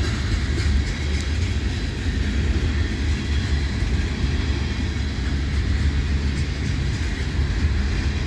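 Freight cars of a passing CPKC train rolling by: a steady low rumble of wheels on rail that runs without a break.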